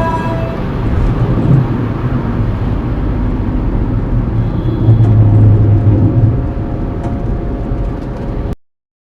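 Road and engine noise inside a 2015 Hyundai Grand i10 with a 1.2-litre petrol engine at highway speed: a steady rumble, with a low hum growing louder about five seconds in. The sound cuts out abruptly near the end where the audio is muted.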